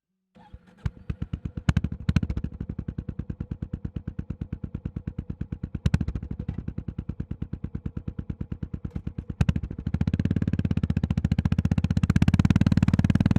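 Honda GB350S single-cylinder engine starting about half a second in, then idling with an even thumping beat of about eight pulses a second, with a few sharp clicks. From about ten seconds in it runs louder and busier as it moves off.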